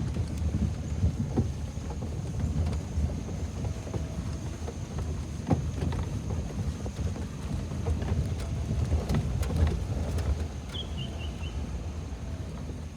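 Vehicle driving slowly along a washed-out dirt road: a steady low rumble with scattered knocks and rattles.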